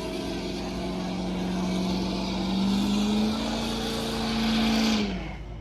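Truck engine held at high revs with a steady pitch that climbs a little about halfway through, then drops off about five seconds in as the throttle is let go.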